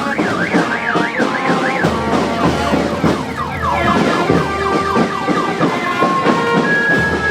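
A siren wailing, its pitch sweeping up and down, mixed with music with many held tones.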